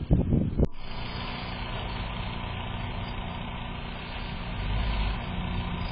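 Vehicle engine idling steadily after a short burst of low rumbling that ends in a sharp click less than a second in.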